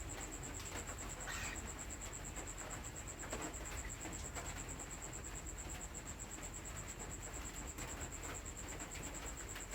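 Crickets trilling in a steady, high, rapidly pulsing chorus, with a few faint short chirps over it, one about a second in and another past three seconds.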